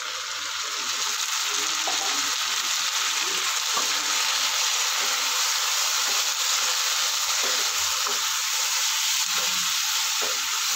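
Blended green masala paste sizzling steadily in hot oil with fried onions in an aluminium kadai, the wet paste hissing as it cooks. A wooden spatula scrapes and stirs it through the pan.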